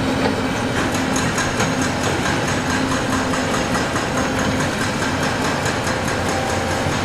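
Diesel engine of heavy earthmoving machinery running steadily, with a fast metallic clatter over it from about a second in.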